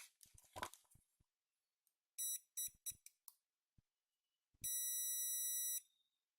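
Digital multimeter's continuity buzzer beeping as its probes touch a mobile phone's circuit board: three short chirps about two seconds in, then one steady beep of about a second. The beep is the tester's sign of a closed path, the check used here for a short on the board.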